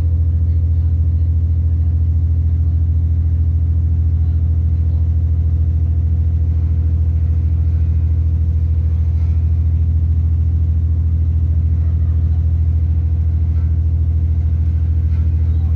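Underfloor MTU turbo-diesel engine of a British Rail Class 170 Turbostar diesel multiple unit running steadily, heard inside the carriage as a constant deep hum with a faint steady higher tone.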